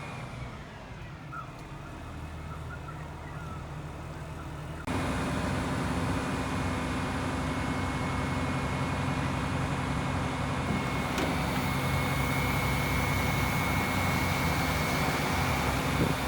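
Aerial ladder truck's engine running steadily with a low hum. It gets suddenly louder about five seconds in and stays loud and steady after that.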